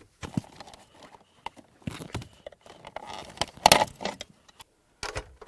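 Small metal clicks and rattles of screws and a hand tool being handled while the interior trim screws are taken out, with the loudest clatter about three and a half seconds in.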